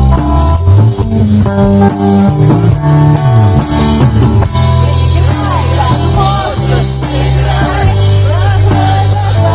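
A band playing an instrumental passage of a pop-rock song: guitar, bass guitar and drums. About halfway through, a wavering melody line with bending notes comes in over the steady bass.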